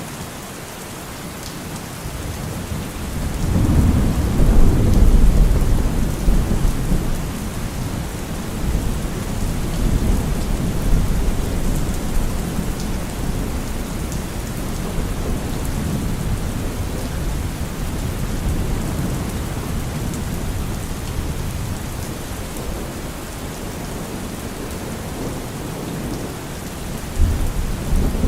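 Steady rain with rolling thunder: a long, deep rumble swells a couple of seconds in, peaks, and slowly dies away, and another rumble begins near the end.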